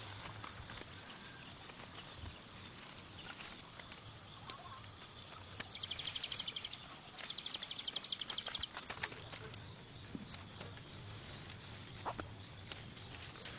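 Two bursts of a fast, high, pulsing chirp-like trill, one about six seconds in and one about seven seconds in, over a quiet outdoor background with scattered light clicks and rustles.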